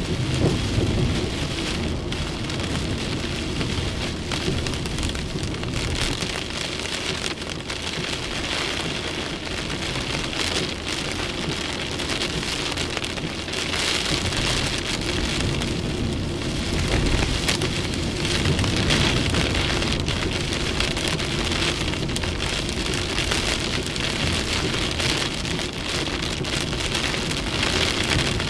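Heavy torrential rain pouring down in a violent thunderstorm, a dense steady hiss, with low rumbles swelling about a second in and again around halfway through.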